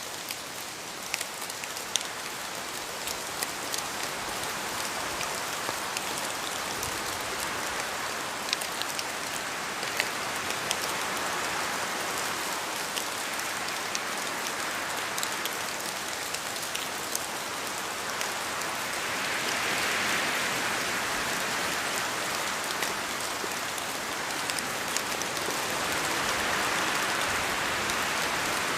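Steady rain in a forest, with many separate drops falling from the trees and ticking sharply on leaves over the even hiss. The rush of rain swells louder twice in the second half.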